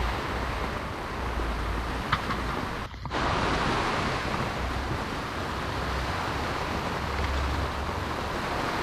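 Heavy rain falling, a steady, even hiss, with a short sharp tick about two seconds in and a brief break in the sound about three seconds in.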